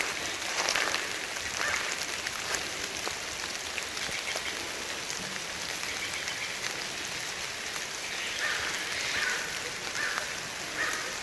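Steady rain falling in a forest, an even hiss with many small drips and patters on leaves and the ground.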